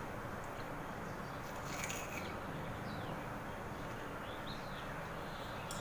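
Faint short bird chirps over a steady background hiss, with a brief noisy rustle about two seconds in.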